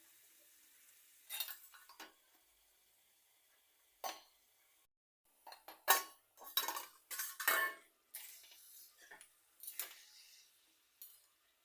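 Metal spoon scraping and clinking against a cooking pan in irregular strokes, busiest in the middle, as chopped onions are stirred while frying.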